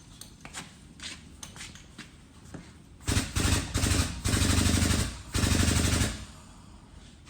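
Pneumatic impact wrench hammering on tractor wheel lug nuts in about four short, loud rattling runs, after a few light clicks of handling.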